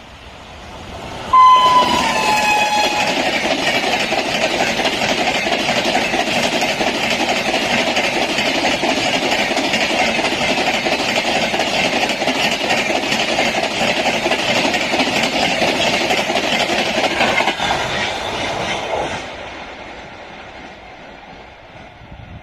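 WAP7 electric locomotive sounding a short horn blast about a second in, its pitch dropping as it passes, then the train's coaches rushing by at high speed with clickety-clack of wheels on rail joints for about seventeen seconds before the sound falls away.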